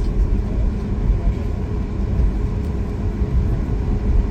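Cabin noise inside a Boeing 737 MAX 8 taxiing on the ground: a steady low rumble from its CFM LEAP-1B engines at idle, with a faint hum.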